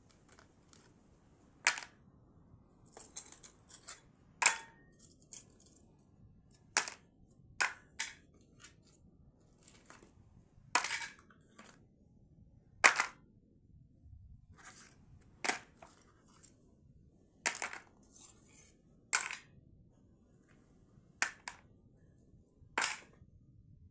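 A series of sharp, irregular clicks and taps, about fifteen to twenty of them, some single and some in short clusters, with quiet between.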